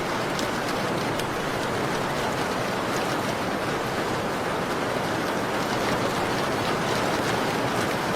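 Steady rain falling on a window, an even hiss with a few faint, sharp ticks scattered through it.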